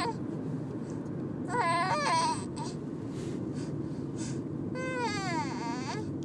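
A baby making two short, high-pitched crying noises as it drifts off to sleep, over a steady low rumble of car noise.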